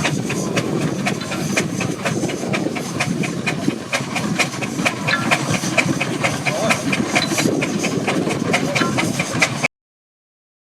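1910 Burrell 8 hp steam traction engine running: a steady steam hiss and rumble with a quick, even clicking beat of about four to five a second. The sound cuts off suddenly near the end.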